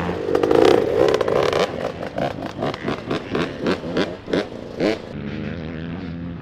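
Dirt bike engine revving hard, its pitch sweeping up again and again, about three times a second. About five seconds in it gives way abruptly to a steadier, quieter low engine drone.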